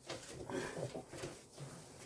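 A dog makes a few short, low vocal sounds while its wet coat is being worked.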